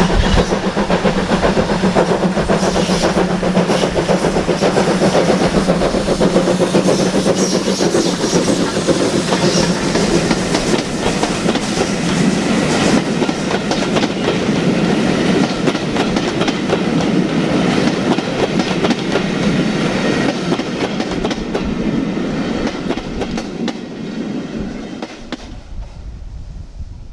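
A steam-hauled heritage train rolling past, its wheels clattering over the rail joints. The sound dies away near the end.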